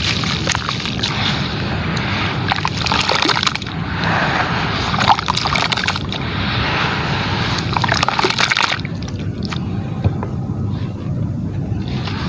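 Gritty, crumbly material breaking up in water, with sloshing and many small crackles. Long stretches of hiss ease off about nine seconds in, leaving scattered clicks.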